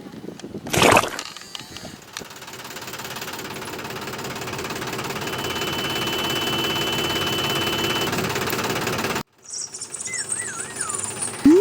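A sharp knock, then the small motor of a DIY mini tractor running steadily for several seconds, slowly getting louder, with a thin high whine in the middle. It cuts off suddenly, and short sliding whistle tones follow near the end.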